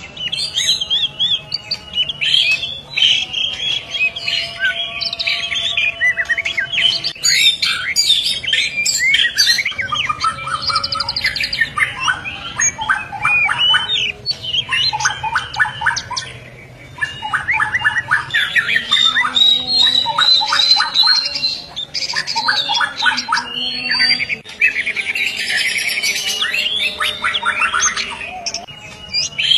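White-rumped shama (murai batu) in full, continuous song: a varied run of whistles and rapid repeated trill notes, broken by a few brief pauses.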